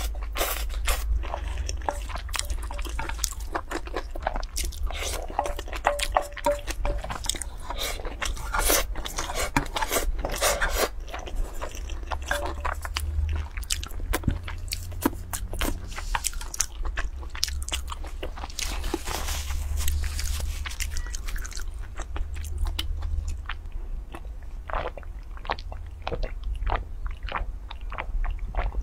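Close-miked chewing and crunching of a spicy dish, with many short wet mouth clicks, and a wooden spoon scraping food from a metal pot. The clicks thin out near the end, over a steady low hum.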